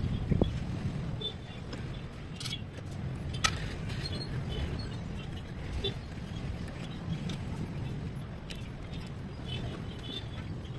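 Engine running steadily with a low rumble, with a few faint bird chirps and clicks over it.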